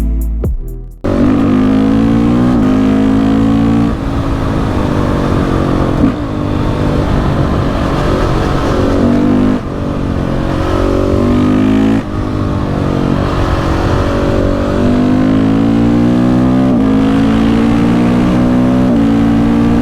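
KTM 690 SMC R's single-cylinder engine accelerating through the gears, its pitch rising in each gear and dropping at each upshift, about six times. Intro music ends about a second in.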